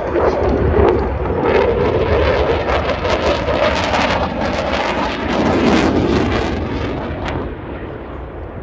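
Eurofighter Typhoon's twin jet engines as it flies past, a loud rushing noise that swells and then fades away near the end.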